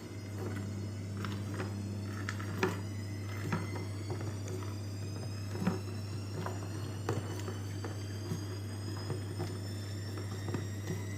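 Liquid from a blended beetroot and red-pepper mixture strained through a sieve into a container, with scattered light clicks and taps and a faint tone slowly rising as it fills. A steady low hum runs underneath and cuts off just after the end.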